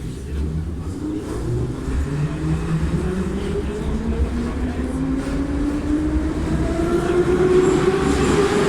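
Metro car 81-714.5M pulling away from a station: the traction motor and gear whine rises steadily in pitch as the train accelerates, with the running noise growing louder.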